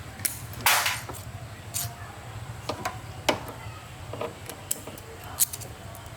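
Tools and metal parts clicking and knocking during motorbike repair work: a string of sharp, irregular clicks, the loudest and longest a short scrape about a second in, over a steady low hum.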